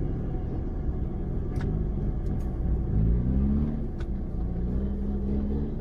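Off-road 4x4 vehicle engine running under load, its pitch rising as it revs about halfway through, with a couple of short knocks over the rumble.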